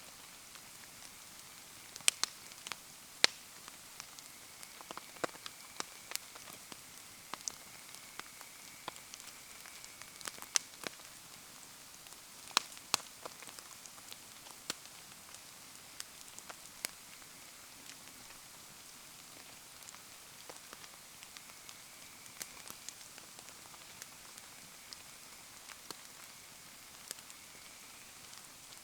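Steady rain hiss, with a wood bonfire crackling and giving off sharp pops at irregular intervals.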